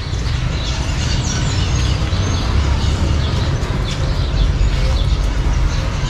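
Small birds chirping faintly in short high calls over a steady low rumble.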